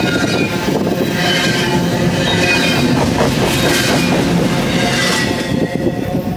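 BNSF double-stack intermodal freight train passing close by: loud steel wheels rumbling and clicking over the rails, with thin high squeals from the wheels. The last car clears near the end.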